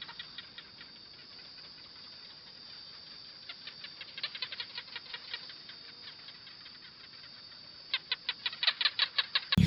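An animal's rapid series of short, high chirps, faint at first and growing louder and quicker near the end.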